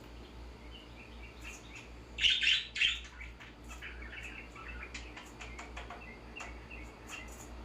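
Pet finches and parakeets chirping: two loud bursts of calls about two seconds in, with soft short chirps and light clicks throughout. A steady low hum runs underneath.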